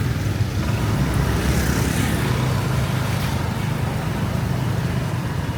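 Street traffic noise: a steady low rumble of passing vehicles and engines.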